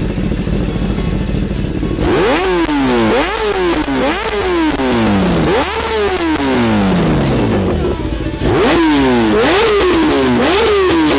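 Superbike engine revved repeatedly through its exhaust. After about two seconds of steadier running, the pitch shoots up and then falls away more slowly, over and over, with a louder run of revs from about eight and a half seconds in.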